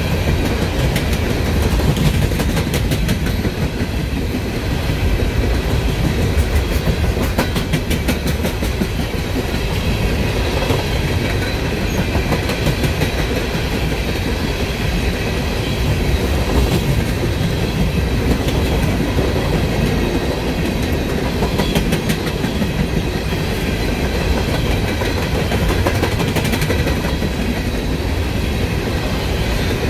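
Empty steel coal cars of a long freight train rolling past: a steady wheel-on-rail rumble with scattered clicks of wheels over the rail joints.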